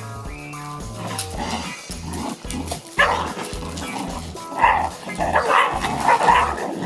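Livestock guardian dog puppies barking and yipping in bursts over background music with a steady beat.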